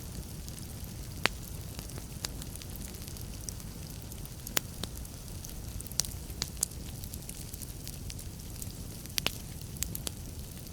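Wood fire burning in a fireplace: a steady low rumble of flames with sharp, irregular crackles and pops scattered throughout, a few of them much louder than the rest.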